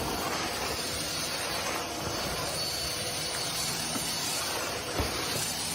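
A steady hissing noise with no clear pitch, and a brief knock about five seconds in.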